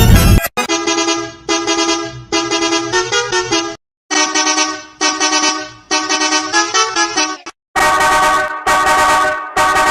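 A vehicle horn sounding a melodic pattern: two short blasts, then a longer run of shifting notes, with the phrase repeated three times. The tail of a louder, harsher sound cuts off about half a second in.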